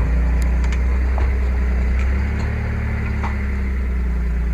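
Truck engine running steadily under load while towing a boat trailer up a rutted slope, its low drone shifting slightly in pitch about two seconds in. A few light clicks and knocks sound over it.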